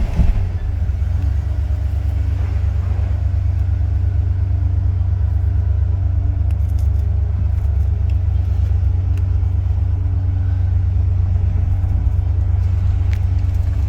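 Ford Bronco engine idling high and steady, a low-pitched hum; the owner thinks the high idle could be a vacuum leak. A short knock sounds right at the start.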